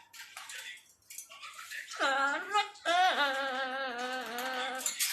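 Parrot singing: after a couple of seconds of faint clicks, a short sung note, then a longer held note with a wavering pitch that lasts about two seconds, in the bird's mimicked singing voice.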